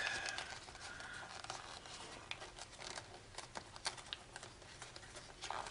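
Foil origami paper crinkling and crackling in many small, irregular clicks as it is folded and pressed by hand.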